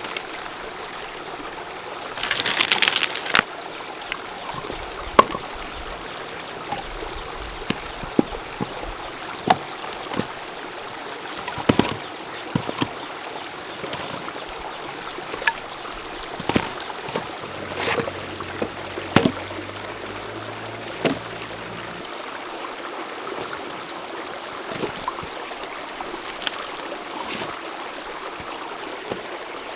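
Mountain stream running steadily, with scattered sharp clicks and knocks over it and a louder burst of noise about two seconds in.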